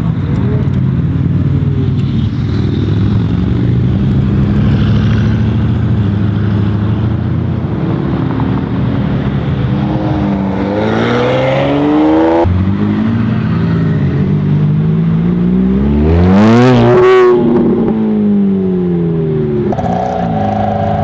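Supercar engines accelerating hard, the pitch climbing through the revs. Near the end one car passes close at speed, its engine note rising and then dropping steeply as it goes by. The sound jumps abruptly twice between different cars.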